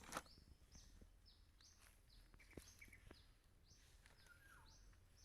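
Near silence with faint, high, repeated bird chirps, each a short downward slide, about three a second, and one soft click about two and a half seconds in.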